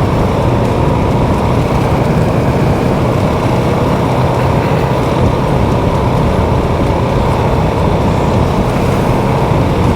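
Steady engine drone and road noise of a moving vehicle at a constant speed, with a low hum held throughout.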